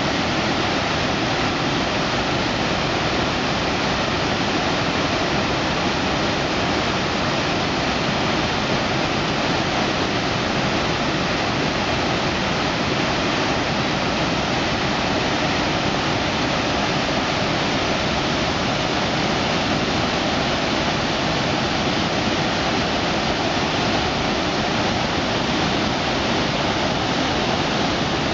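Waterfall cascading down a rocky river step, a steady, even rush of falling water.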